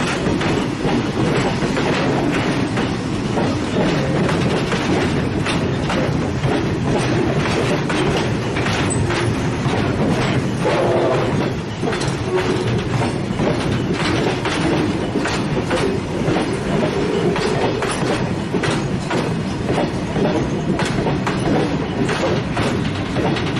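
Train running steadily, its wheels clattering over the rail joints in a continuous clickety-clack.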